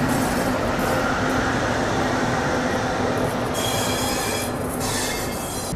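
Indian Railways passenger train running on the track: a steady rumble of wheels and rails, with a high metallic wheel squeal coming in over the last two seconds.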